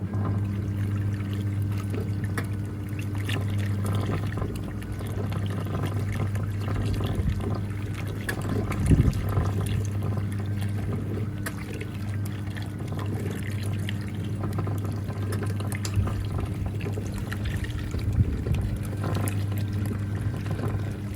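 National NA9450PN washing machine agitating its wash: the pulsator motor hums steadily while water churns and pours through the tub.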